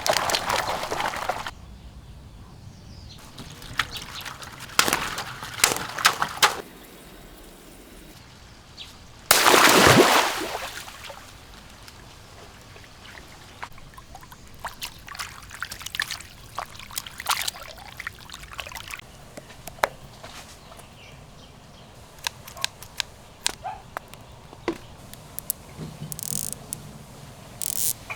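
Water pouring and splashing, with trickles and scattered drips and clicks. There is a heavy rush at the start and a brief, loud gush about ten seconds in.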